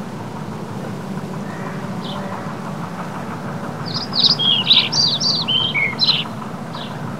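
Small birds chirping: one short call about two seconds in, then a quick run of short, falling chirps for about two seconds, over a steady low rumble.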